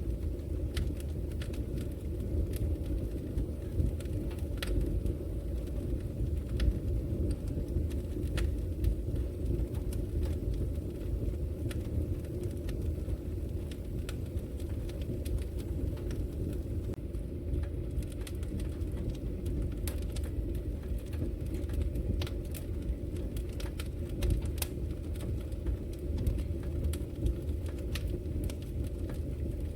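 Logs burning in a wood fireplace: a low steady rumble of the flames, with many irregular sharp crackles and pops from the wood.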